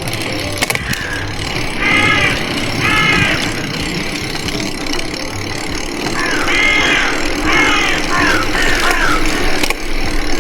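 Steady hum of road traffic, with short high-pitched calls cutting through twice about two seconds in and then four more in quick succession between about six and nine seconds.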